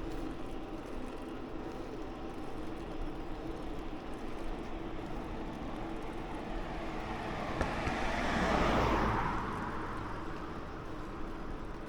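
A vehicle passes by, its noise swelling to a peak about nine seconds in and then fading, over steady riding and wind noise.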